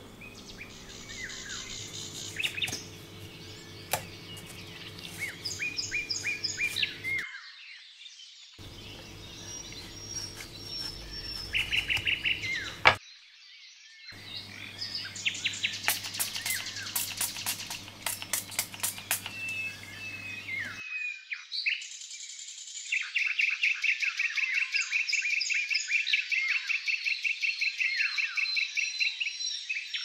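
Songbirds chirping and trilling, several calls overlapping, with fast repeated trills. The sound cuts out briefly twice, once right after a single sharp click about halfway through.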